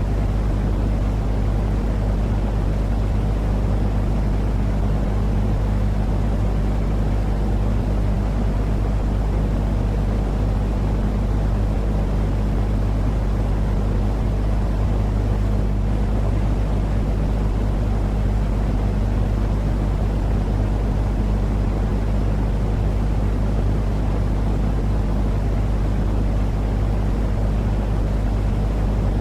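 Steady, unchanging low-pitched noise with a deep hum under it, a continuous sleep-noise track for calming babies.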